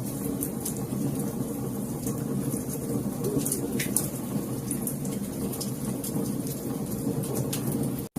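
Wood fire crackling: frequent irregular sharp pops and snaps over a steady low rumble of burning logs. The sound cuts out for an instant near the end.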